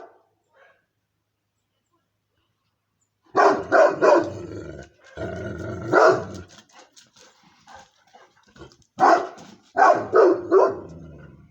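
Moscow Watchdog barking in groups: silent for the first three seconds, then three quick barks, a longer rougher stretch around five to six seconds, and four more barks near the end.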